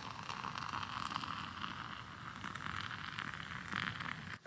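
Trangia spirit burner burning under a pot of water, a steady hiss. It cuts off abruptly near the end.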